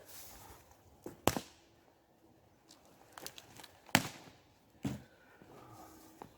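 Three sharp knocks or cracks, the first about a second in, the loudest about four seconds in and another just after, with fainter clicks between.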